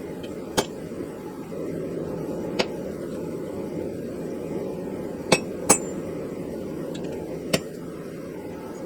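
A hand hammer striking steel on an anvil: five sharp metallic blows at uneven intervals, two in quick succession midway, over a steady low background noise.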